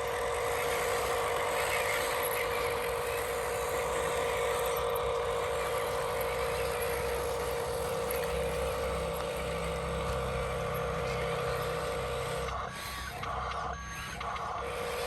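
Radio-controlled toy construction truck running, its electric motors and gears giving a steady whine that breaks off briefly twice near the end.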